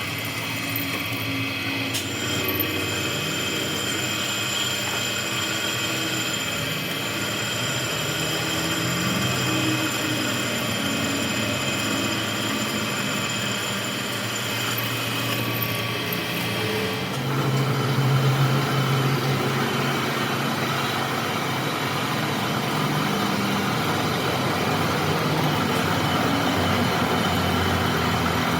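Workshop machinery running steadily, with a shift in its tone and a slight rise in loudness about seventeen seconds in.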